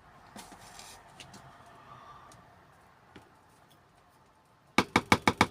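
Spoon scraping and tapping while scooping springtails into a plastic enclosure: a faint scrape in the first second, a few small clicks, then a quick run of about six sharp taps near the end, the loudest sound.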